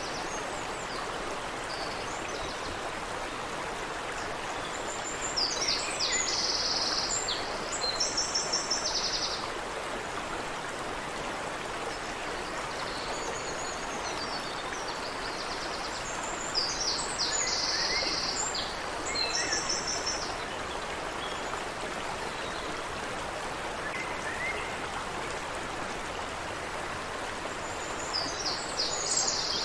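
Water running steadily in a brook, with a songbird singing three times, each a short high phrase that ends in a fast trill, repeated roughly every eleven seconds.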